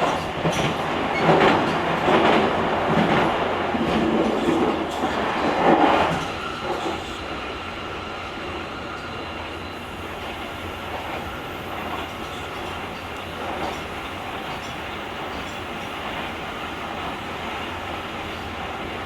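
Running noise of a JR Kyushu 883-series Sonic limited express electric train, heard from the deck of motor car KuMoHa 883-8: louder clattering rumble for the first six seconds or so, then a steadier, even rumble.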